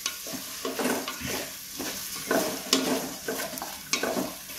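Sliced onions, tomatoes and green chillies sizzling in a little oil in a pressure cooker pot, with a spoon stirring and scraping through them in short, irregular strokes while the tomatoes cook down.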